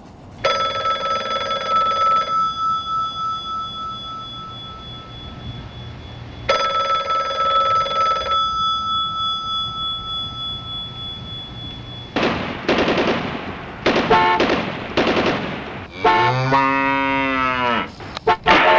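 A string of odd comic noises. There are two bell-like rings whose tones hang and fade, one near the start and one about six seconds in. From about twelve seconds in comes a quick rattling run, then a warbling sound that bends up and down in pitch.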